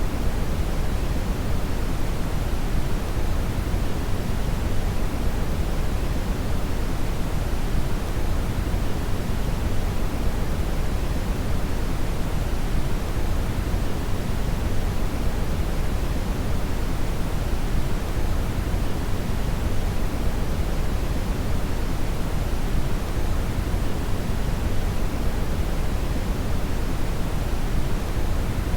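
Steady brown noise: a constant, deep rumbling hiss with most of its energy in the bass, unchanging throughout.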